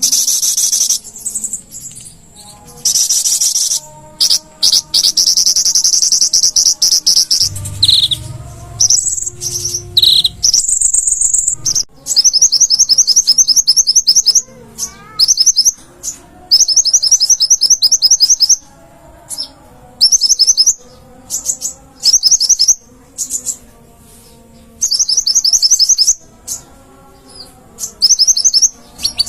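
Konin (kolibri ninja sunbird) singing in a lively, full-voiced way: long high buzzy phrases at first, then bursts of very fast, high trilled notes, each a second or two long, with short pauses between.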